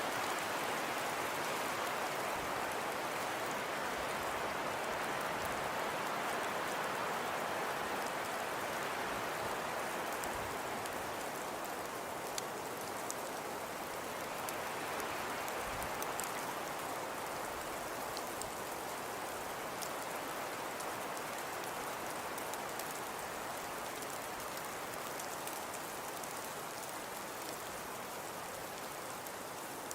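Steady hiss of falling snow or sleet with faint scattered ticks, slowly swelling and easing, like light rain.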